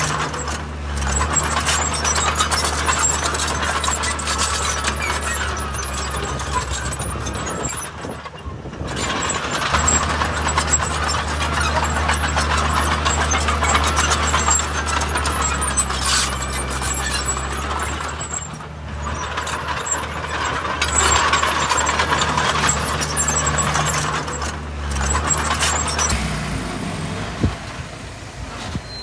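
Diesel engine of heavy earthmoving machinery running under load, with a dense mechanical clatter over a steady low engine note. It eases off briefly a few times, and the sound changes abruptly near the end.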